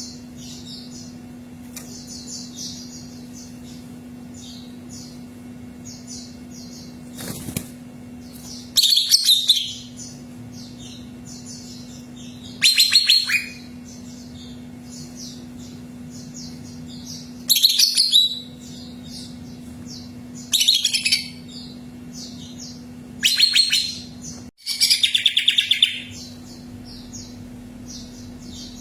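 Cucak ijo (green leafbird) singing: a steady run of soft high chirps, broken by about six loud, rapid song phrases of around a second each in the second half. A faint steady hum runs underneath.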